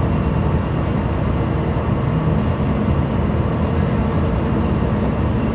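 Steady low rumble of a ship's engine running ahead at slow speed, mixed with wind noise.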